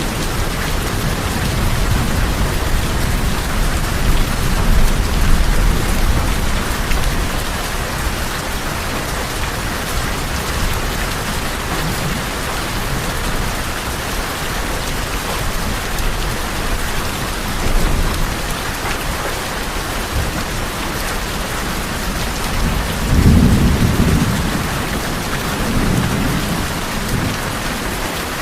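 Steady heavy rain on tin roofs, an even hiss of drops, with low thunder rumbling underneath; one louder roll of thunder swells near the end.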